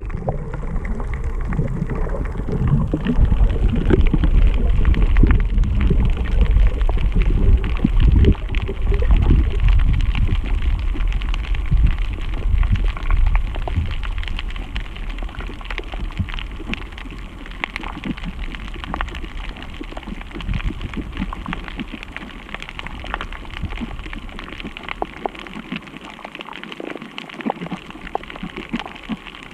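Steady rain with a dense patter of drops. A loud low rumble fills the first half and fades away after about fourteen seconds, leaving the rain lighter.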